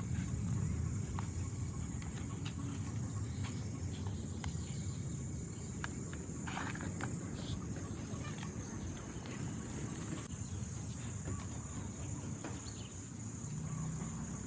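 Outdoor ambience: a steady high insect buzz over a low rumble, with a few faint clicks and rustles.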